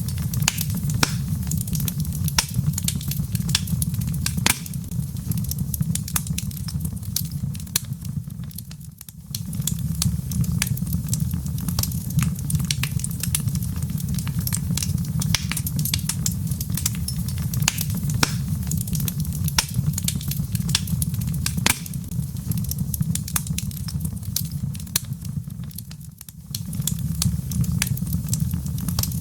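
Wood fire burning in a fireplace: a steady low rumble of the flames with frequent sharp, irregular crackles and pops from the logs. The rumble briefly drops away twice.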